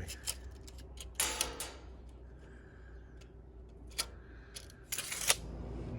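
Scattered light clicks and knocks of tools and sheet steel being handled, with a short scraping rustle about a second in and the sharpest knock just after five seconds, over a low steady hum.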